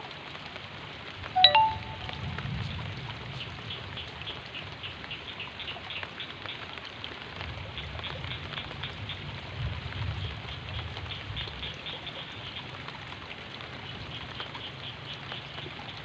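Steady rain falling, an even hiss over a low rumble. About a second and a half in, a short, sharp high-pitched call cuts through, the loudest moment.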